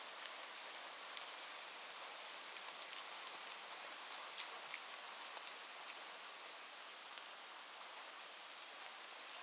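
Steady rain falling, an even hiss with scattered sharp ticks of individual drops, most of them in the first half.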